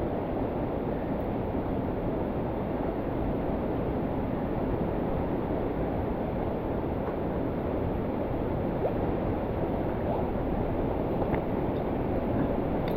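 Rushing water of a mountain stream and waterfall, a steady, even roar.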